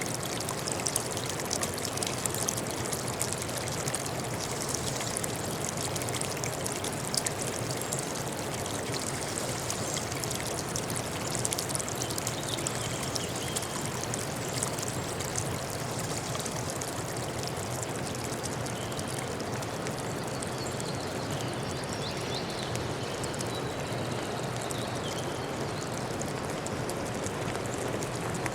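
Flowing water, a stream or small waterfall, rushing steadily with fine splashing and trickling, the splashes busiest in the first half. A few faint high chirps, likely birds, come in the second half.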